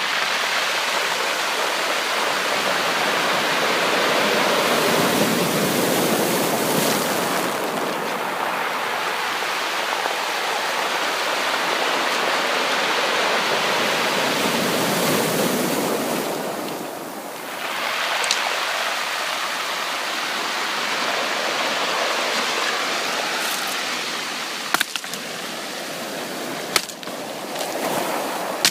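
Sea surf washing on a shore in a steady rush, swelling twice, about five and fifteen seconds in, with a brief lull after the second swell. A few sharp ticks come near the end.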